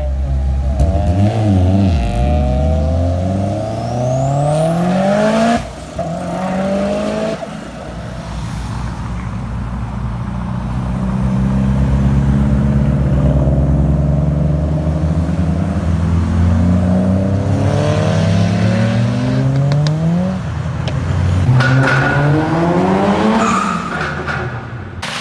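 Mitsubishi Lancer Evolution's turbocharged inline-four under hard acceleration. The revs climb, drop briefly at a gear change about five and seven seconds in, then make a long climb. They fall again around twenty seconds in and rise once more near the end.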